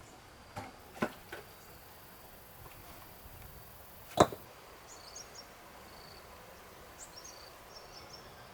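A few sharp knocks, three close together in the first second and a half and a single louder one about four seconds in, with short high bird chirps in the second half over a quiet outdoor background.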